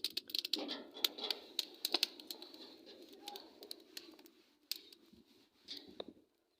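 Pigeons cooing softly, with many short sharp clicks scattered through, thinning out near the end.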